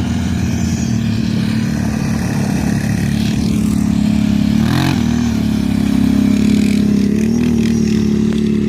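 Quad (ATV) engine running steadily at a moderate, even speed, with a brief dip and pick-up in revs about five seconds in.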